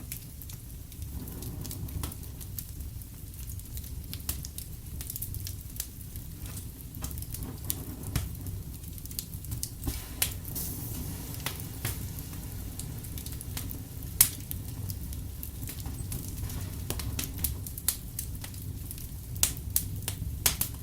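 Fireplace fire crackling: a steady low rumble of flames with scattered sharp pops and snaps, the loudest about fourteen seconds in.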